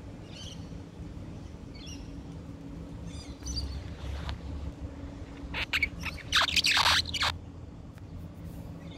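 Small bird chirps, short and high, repeating about every second and a half, then a louder scratchy, rasping burst of noise lasting about two seconds past the middle, over a steady low hum.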